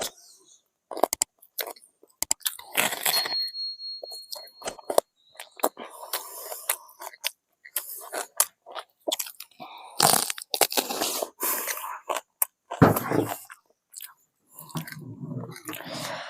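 Crispy fried chicken being bitten and chewed close to the microphone: irregular crunches and wet chewing, with a few louder crunches about ten and thirteen seconds in.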